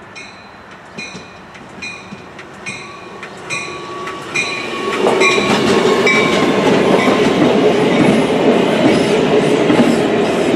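A bell striking steadily about once every 0.7 seconds as a passenger train approaches, then the train arrives about halfway through and passes loudly, its wheels clacking over rail joints with faint high wheel squeal.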